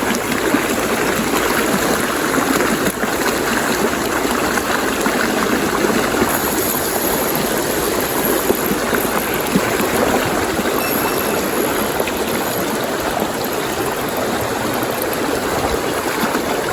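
Small river steadily rushing over rocks and riffles.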